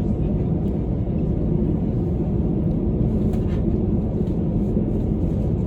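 Steady low rumble of airliner cabin noise aboard an Airbus A321-200: engine and airflow noise heard from an economy seat.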